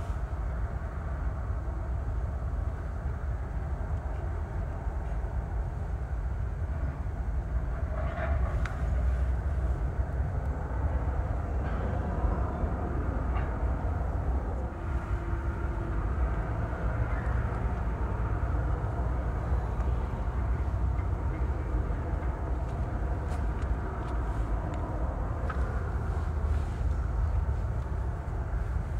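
Freight train cars rolling past with a steady low rumble, broken by a few brief faint squeals and clanks.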